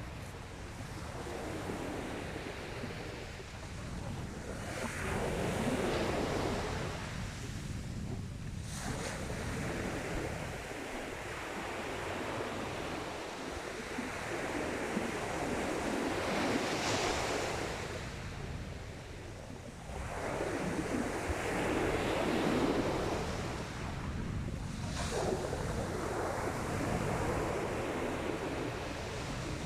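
Sea waves breaking and washing on a shingle beach, the surf rising and falling in slow surges every several seconds, with a steady low rumble of wind on the microphone underneath.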